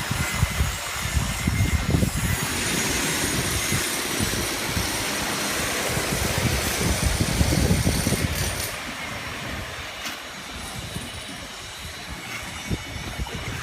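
Steady rushing noise of water flowing down a giant water slide, with uneven low rumbling underneath; it eases a little about eight seconds in.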